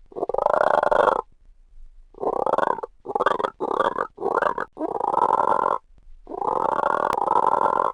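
Frog calling: a series of rough, pulsed croaking calls. The longer calls last about a second each, with a quick run of four or five short croaks in the middle.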